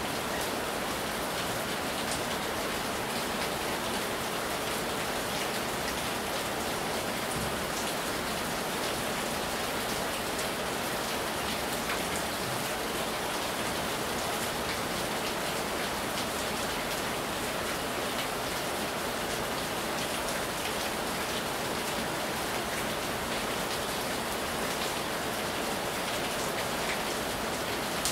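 Heavy rain pouring steadily onto a wet tiled porch, an even hiss with scattered sharper drop splashes close by.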